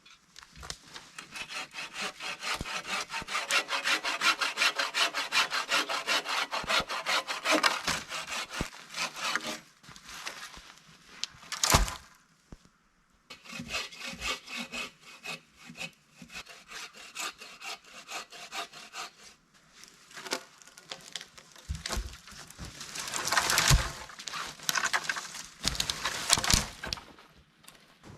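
Hand saw cutting through wood in quick, regular back-and-forth strokes. The sawing stops for a few seconds around a single sharp crack, then resumes in shorter spells.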